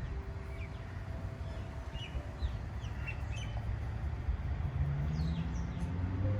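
Small birds chirping in short, scattered calls with quick downward notes, over a steady low rumble that grows louder near the end.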